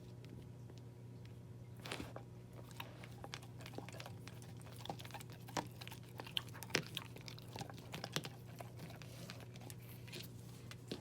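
A puppy chewing and crunching its food, with irregular crunches and bites that start about two seconds in.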